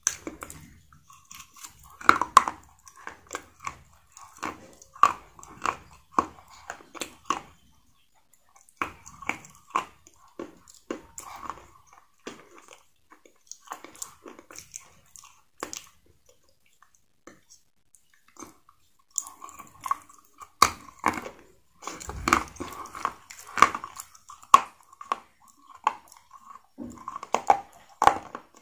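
Close-up chewing: a person biting and crunching something hard and brittle, dense runs of sharp crunches broken by a few short pauses.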